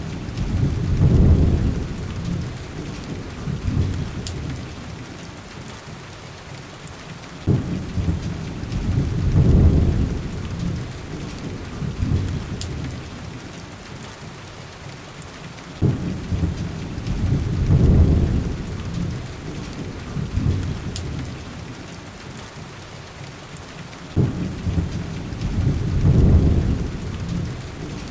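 Heavy rain pouring steadily, with rolling thunder rumbling about every eight seconds. Each peal starts with a sudden crack, swells deep and loud, then dies back into the rain.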